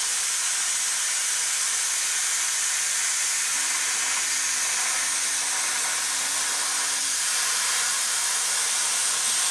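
Plasma cutter torch cutting under CNC control: a steady, loud hiss. A faint low hum joins it from about three and a half to seven seconds in.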